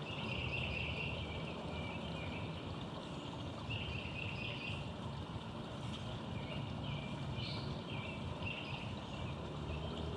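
Small songbirds chirping in short clusters of calls, three times, over a steady low rumble of road traffic.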